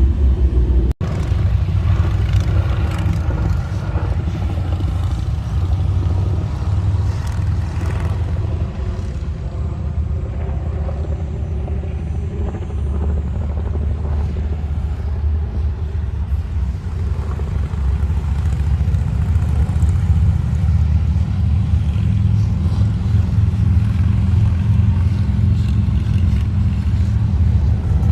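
Motorcycle engine running steadily under way, with heavy wind rumble, as heard from the bike while riding. The sound breaks off briefly about a second in.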